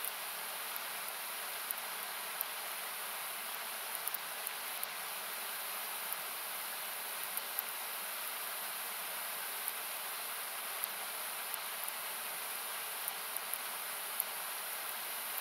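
Steady rushing of a river, equalised so that it sounds like hiss, with irregular sharp pops and crackles from a wood campfire scattered through it.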